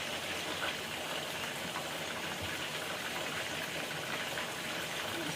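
Chicken sizzling steadily in hot oil in a karahi, a continuous hiss with light crackles.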